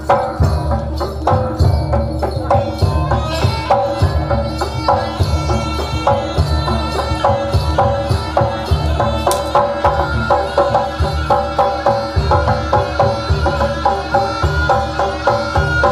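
Instrumental passage of Javanese traditional ensemble music: hand drums keep a steady, busy rhythm under a bright, repeating melodic line, with no singing.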